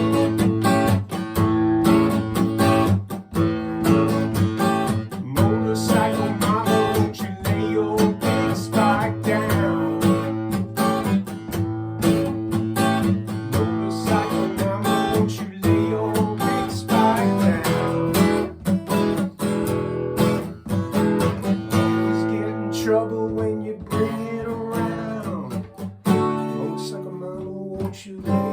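Acoustic guitar strummed steadily in an instrumental passage of a song, thinning out and getting quieter over the last few seconds.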